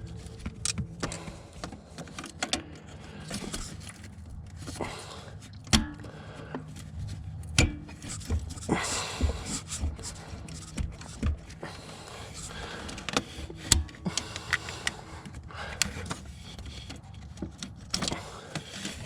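Irregular metallic clicks, knocks and rattles of hands working a gear shift cable end off its pin at the gearbox, with a low steady hum underneath.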